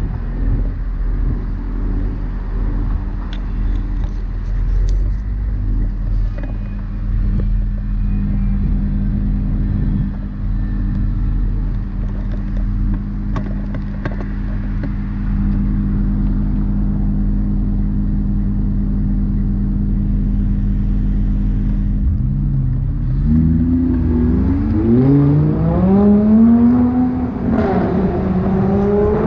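Car engine running steadily at cruise, then accelerating near the end, its pitch rising, dropping and rising again through several gear changes.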